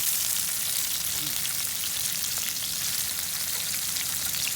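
Fish fillets frying in hot oil in a pan on a gas cooker: a steady sizzle with small crackles.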